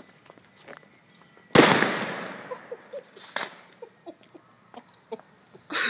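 A firecracker goes off with one loud, sharp bang about a second and a half in, echoing and fading away over about a second. A softer sharp knock follows a couple of seconds later.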